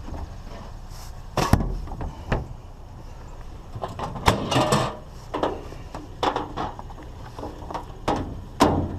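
Irregular knocks and thumps, about ten of them, with footsteps, as a discarded microwave oven is picked up and carried.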